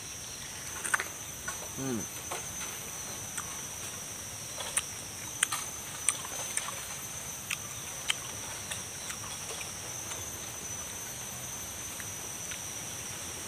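Mouth sounds of biting and chewing fresh pineapple, with sharp wet clicks and crunches scattered through the first nine seconds. A steady high insect drone of cicadas or crickets runs underneath.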